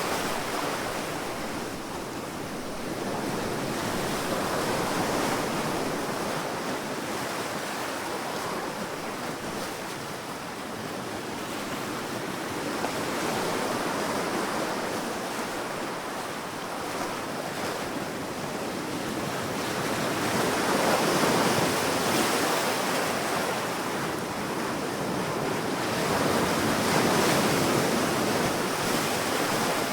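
Sea waves washing onto a sandy beach, a continuous surf that swells and ebbs slowly, with louder breakers about two-thirds of the way through and again near the end.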